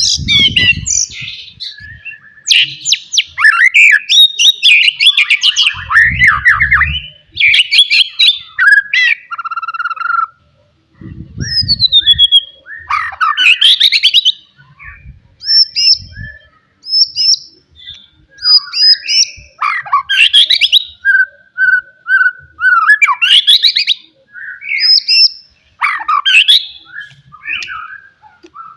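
White-rumped shama (murai batu) singing a loud, varied song of clear whistles, fast trills and harsh chattering phrases, broken by short pauses. A few low thuds sound near the start and again around six and eleven seconds in.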